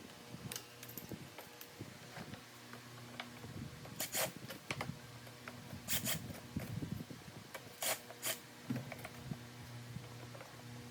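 Hand work on car parts: scattered rubbing and handling noises with a few sharp clicks and knocks, over a steady low hum.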